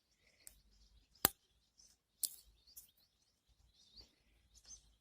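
Faint scraping and small clicks as crusted coolant deposits, the corroded aluminium of the cylinder head, are picked out of a radiator hose. There is a sharp click about a second in and another just after two seconds.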